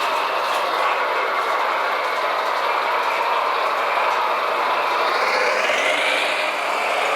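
Radio-controlled model truck running, a steady mechanical whine and rumble that rises in pitch from about five seconds in.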